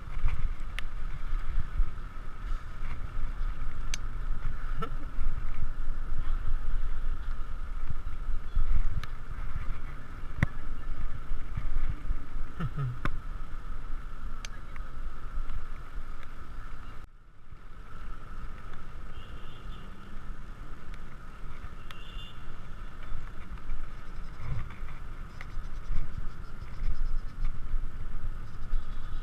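Wind and road rumble on a bicycle-mounted GoPro during a ride, with a steady hum and scattered light clicks and rattles. The sound drops away briefly about halfway through.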